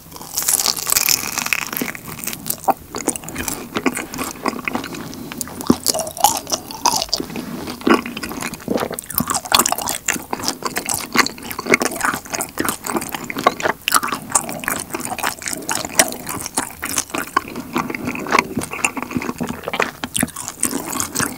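Close-miked eating of honeycomb on a warm kirimochi rice cake: a bite at the start, then steady chewing, a dense run of crunching and clicking mouth sounds.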